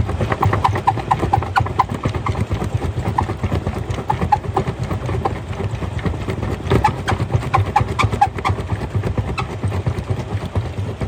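Rock crusher running, with stones knocking and clattering irregularly against its steel, some hits ringing briefly, over a steady low machine rumble.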